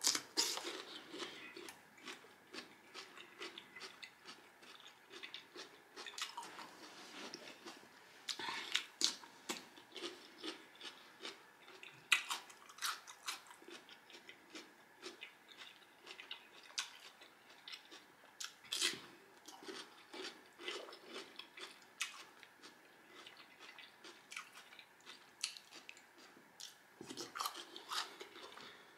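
Soft mouth sounds of eating: chewing and crunching on raw cucumber and seafood boil, with many short crackles and clicks scattered throughout.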